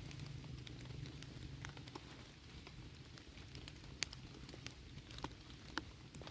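Campfire crackling: sparse, irregular pops and snaps, a few each second.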